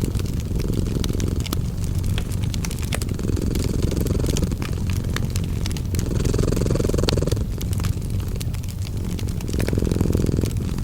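A cat purring in a low rumble that swells and eases with each breath, about every three seconds, over the crackle and pop of a wood fire.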